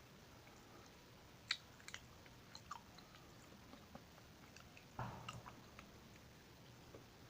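Faint close-up mouth sounds of chewing creamy chocolate: scattered soft clicks and smacks, the sharpest about one and a half seconds in, and a fuller chewing sound about five seconds in.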